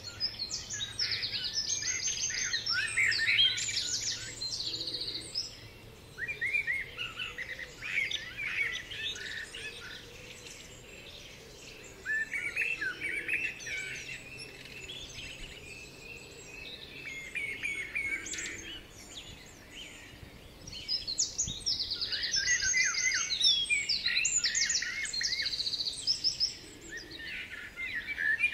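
Songbirds singing in repeated bursts of quick chirps and trills, with short pauses between the phrases.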